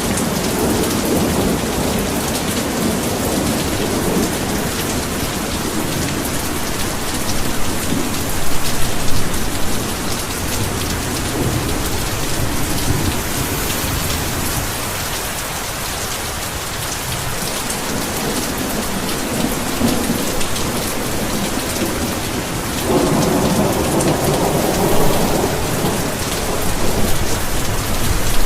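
Heavy rain pouring steadily, with low rolls of thunder rumbling under it, swelling about eight seconds in and again near the end.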